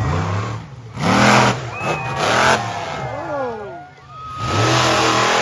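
Monster truck engine revving hard in repeated bursts, three loud surges with the revs rising and falling, while a crowd yells and cheers.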